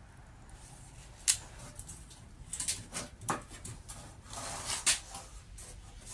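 Quiet workshop handling noises: a few scattered sharp clicks and knocks, with a short rustle near the end.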